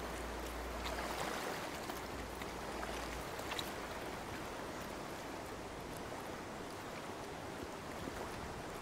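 Steady rushing of a shallow salmon stream, with faint splashes and ticks of water.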